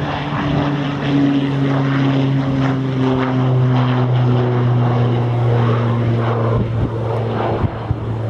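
Propeller aircraft going by with a steady engine drone, its pitch dropping slightly as it passes.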